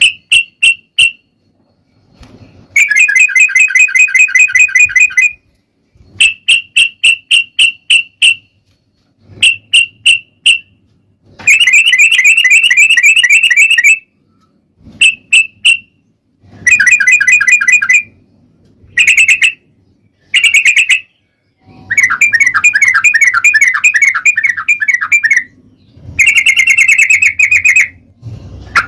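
Sooty-headed bulbul singing loudly in the rapid 'ropel' style. Fast trilled phrases of one to three seconds alternate with short runs of three to six separate sharp notes, with brief pauses between phrases.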